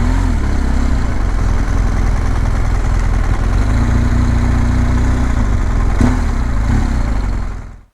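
Twin-cylinder adventure motorcycle engine idling steadily after arrival, then cut off shortly before the end.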